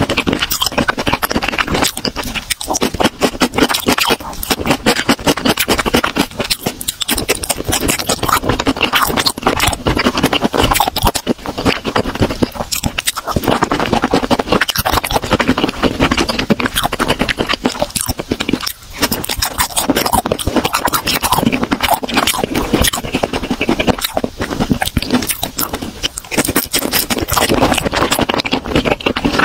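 Close-miked chewing: a steady stream of crisp, wet crunching and mouth clicks, broken by a few brief pauses.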